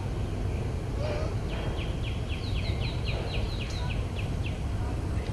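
A bird calling a quick run of about a dozen short notes, each falling in pitch, about four a second, starting about a second and a half in and stopping near the end. A steady low outdoor rumble runs under it.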